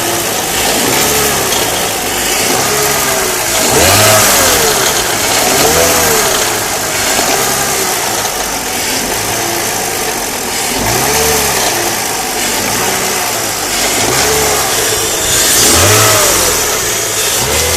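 BMW M54B30 3.0-litre inline-six petrol engine blipped over and over, the revs rising and falling back every couple of seconds. It makes a strange noise as the revs drop.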